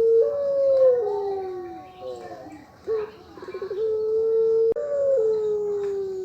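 Puter pelung dove cooing in two phrases. Each phrase is a short note and a quick stuttering trill, then a long held coo that steps up in pitch and glides slowly down in a drawn-out ending, the 'ngelik panjang' long high ending prized in this bird's voice. A single sharp click sounds just before the second long glide.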